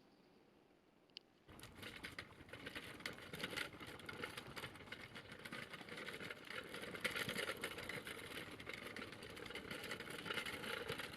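Dog wheelchair's wheels rolling over a rough path with a dense, continuous crackling rattle. The rattle starts suddenly about a second and a half in, just after a single click.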